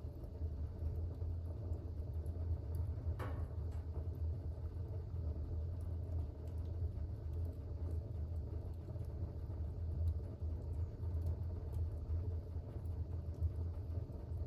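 Fire burning in a fireplace: a steady low rumble with faint scattered crackles, and one sharper crackle or pop about three seconds in.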